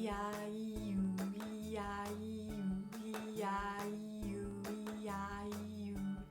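Background acoustic guitar music with a woman's voice held on one steady pitch for about six seconds, its tone colour shifting every second or so. The voice stops at the end.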